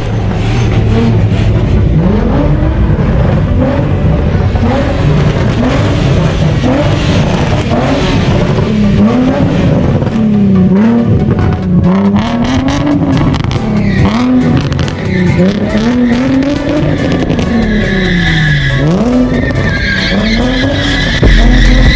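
A car's engine revving up and down over and over as its tires skid, as in donuts or a burnout. A steady high tire squeal joins in during the second half.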